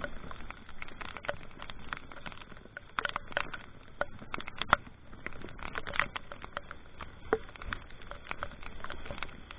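Rain pattering: raindrops land as irregular sharp taps close to the microphone, over a low steady rumble.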